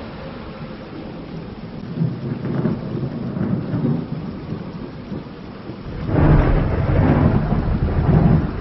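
Thunder rumbling over steady rain, with a louder, deeper roll of thunder breaking in about six seconds in.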